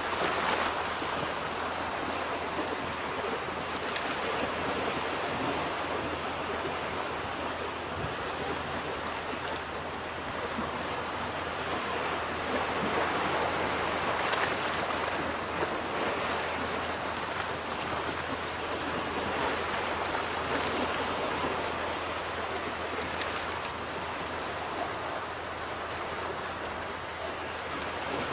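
Ocean waves breaking and washing on a beach, a steady surf rising and falling every few seconds, with a constant low hum under it.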